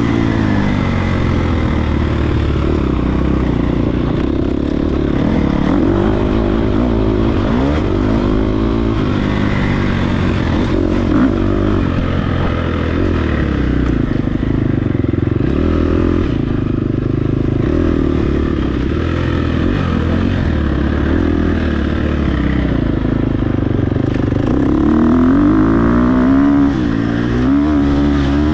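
Dirt bike engine being ridden hard off-road, its pitch repeatedly climbing and dropping as the throttle is worked and the gears change, with a strong rising rev near the end.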